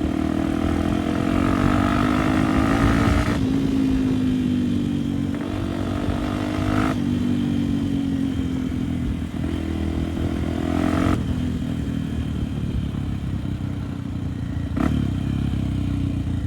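Honda Tornado trail bike's single-cylinder four-stroke engine running under way, its revs rising and falling, with an abrupt change in engine note about every four seconds, as with throttle changes or gear shifts.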